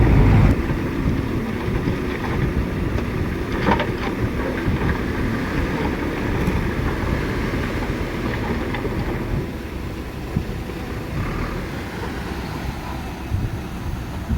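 Heavy diesel machinery running with a steady low rumble, with a single knock about four seconds in, the engine easing slightly quieter near the ten-second mark.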